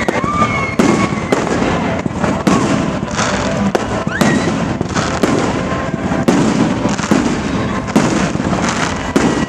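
Fireworks display: a steady run of bangs and crackling, several each second, with a few short rising whistles.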